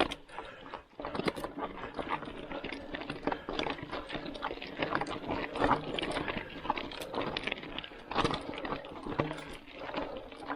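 A mountain bike rattling and clattering as it is ridden over rough dirt ground, with dense, irregular knocks and clicks throughout.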